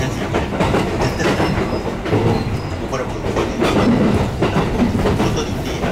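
Passenger train running, heard from inside the carriage: a steady rumble with the clicking of wheels over the rails.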